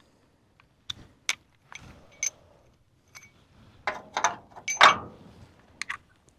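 Metal tools clinking and knocking against metal: a string of separate clinks, some with a short high ring, the loudest cluster about five seconds in.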